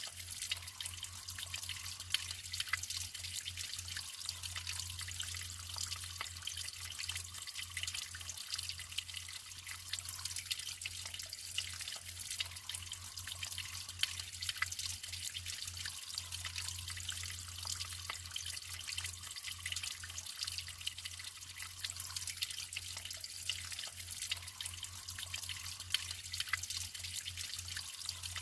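Natural flowing water trickling steadily, with many small drips and splashes over an even hiss and a faint low hum underneath.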